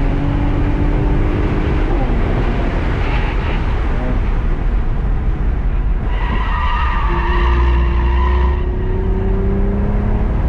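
A motor running with a whine that climbs slowly in pitch, over loud steady noise; a higher, wavering pitched sound joins for about two and a half seconds past the middle.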